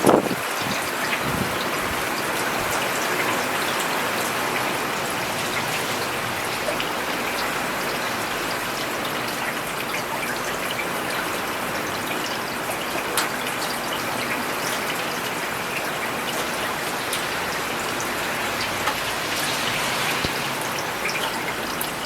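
Steady rain falling on a paved road: an even hiss with scattered individual drop ticks. A brief low rumble comes right at the start.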